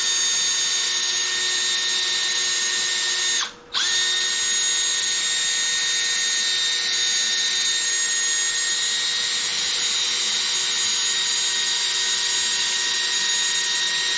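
Cordless drill spinning a sanding pad with 500-grit paper, wet-sanding a plastic headlight lens: a steady motor whine that stops briefly about three and a half seconds in and starts again at once.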